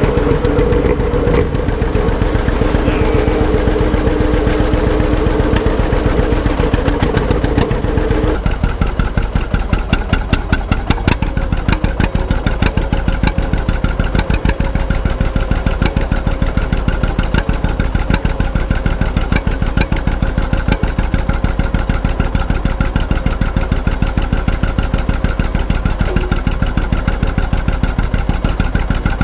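Antique tractor engine running steadily with a rapid, even exhaust beat. A steady droning tone alongside it cuts off suddenly about eight seconds in.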